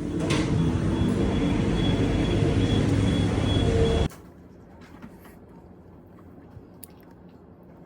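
Loud steady vehicle running noise that cuts off suddenly about four seconds in, leaving quiet room tone.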